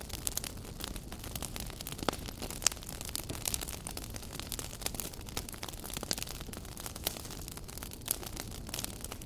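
Wood fire burning in a fireplace, crackling with frequent sharp pops and snaps over a low steady rush of flame; two louder pops come about two and two and a half seconds in.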